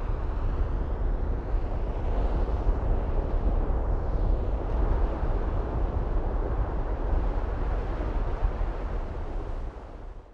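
Wind buffeting the microphone: a steady, fluttering low rumble of noise that fades out near the end.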